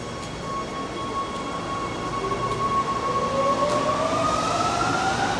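Rome metro train's electric traction motors whining over the rumble of the train. A steady tone begins rising in pitch about two seconds in as the train accelerates, and the sound grows a little louder.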